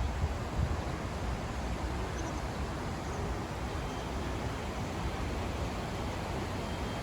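Steady outdoor background noise, an even hiss with no clear single source, with low wind rumble on the microphone fading out in the first second.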